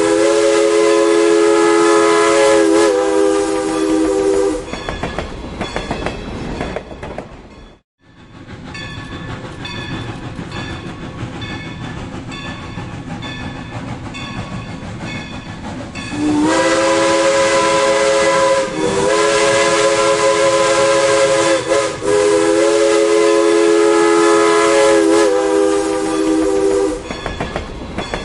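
Steam locomotive whistle sounding several notes at once in long blasts, dying away about four seconds in. After a sudden cut, the train rolls by with a steady wheel clickety-clack. The whistle blows again from about sixteen seconds in, in long blasts with short breaks between them, as for a level crossing.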